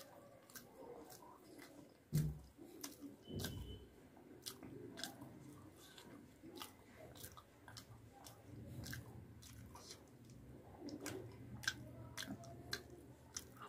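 Close-miked chewing of puri and fried potato, with wet mouth clicks and smacks. A low thump about two seconds in is the loudest sound, and a smaller one follows about a second later.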